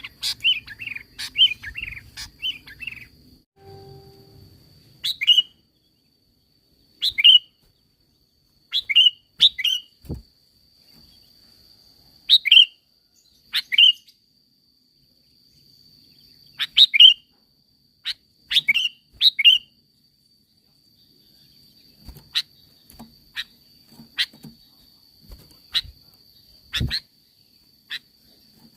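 Sooty-headed bulbul (kutilang) calling: a quick chattering run at the start, then single short, sharp call notes every second or two, some in pairs or threes, giving way to briefer clicky notes near the end. A faint steady high tone runs underneath, with a couple of low thumps.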